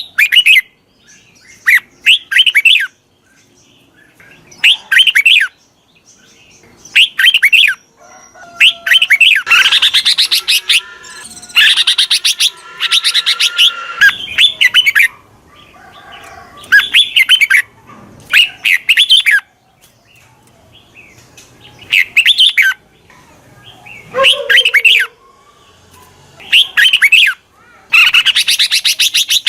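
Red-whiskered bulbul song: short bursts of quick, chirpy whistled notes repeated every second or two, with longer run-on phrases in the middle and near the end. It is a decoy bird's song used to call wild bulbuls in.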